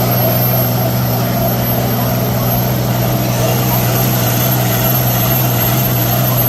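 Vehicle engine running steadily at constant speed, with a thin high whine over it that holds steady and begins to fall away at the very end.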